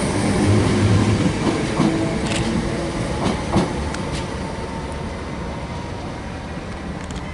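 A train running past and moving away: low running noise that fades steadily, with a few sharp wheel clacks over the rail joints around the middle.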